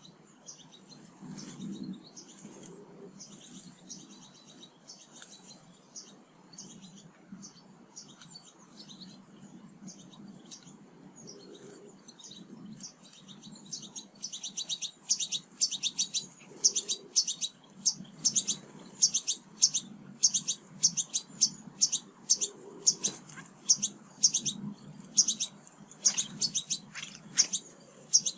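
Small songbirds chirping at garden feeders: short, high chirps, scattered at first, then much louder and quicker from about halfway through, several a second. A faint low hum runs underneath.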